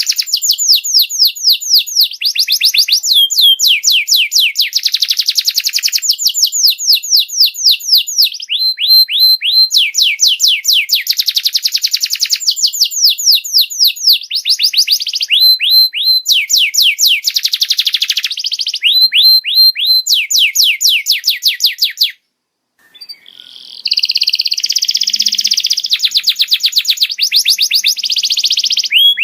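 Canary singing in fast trills of rapidly repeated, downward-sweeping notes. The trill pattern changes every second or two, and the song cuts out for about a second roughly 22 s in before resuming.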